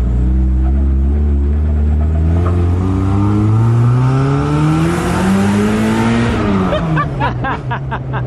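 Mazda Miata four-cylinder engine revving up under full throttle on a 50-shot of wet nitrous, heard from inside the car. Its pitch climbs steadily for about six seconds, then drops as the throttle is lifted. A man laughs near the end.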